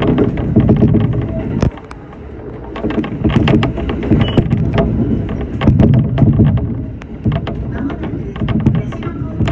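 Shinano Railway SR1 series electric train running, with a heavy low rumble and many sharp clicks and knocks from the wheels and running gear. The rumble drops off suddenly about two seconds in and builds back up a second later.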